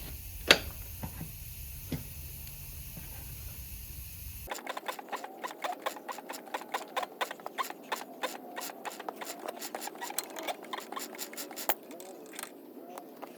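Metal hand-tool work on a Yamaha Blaster's rear axle and nuts. A single sharp metal click comes about half a second in. From about four and a half seconds, a fast, irregular run of light metallic clicks and scraping follows.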